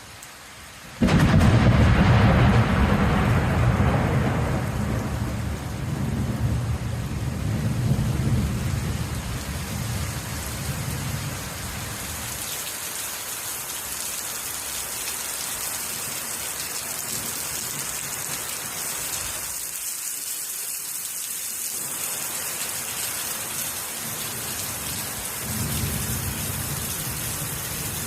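Thunderstorm with heavy rain falling steadily. About a second in, a sudden loud thunderclap rolls on as a low rumble that fades over some ten seconds, and another low rumble of thunder comes near the end.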